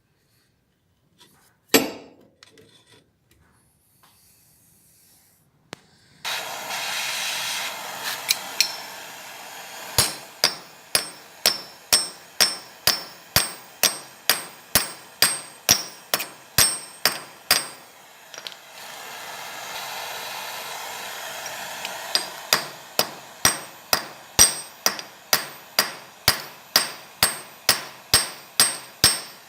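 Hammer striking metal in a steady rhythm of about two blows a second, each blow with a short bright ring, in two long runs with a pause between them, over a steady hiss.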